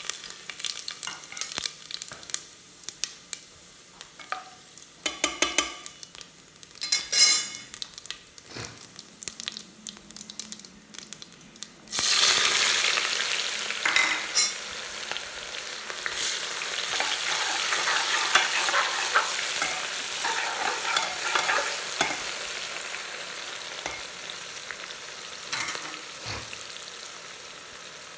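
Whole spices (dried red chillies, bay leaves, cumin seeds) crackling and spluttering in hot oil in an aluminium pressure cooker, with scattered clicks and taps. About twelve seconds in, sliced onions go in with a sudden loud sizzle that settles into steady frying and slowly fades.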